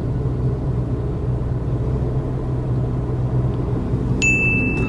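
Steady low rumble of a car's engine and road noise heard from inside the cabin while driving. A single high, steady beep starts about four seconds in.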